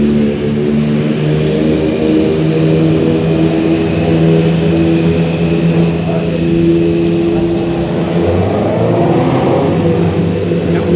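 Several motorcycles riding into the pit lane at low speed after a red flag, their engines running together in steady overlapping tones. One engine revs up, rising in pitch, about eight to ten seconds in.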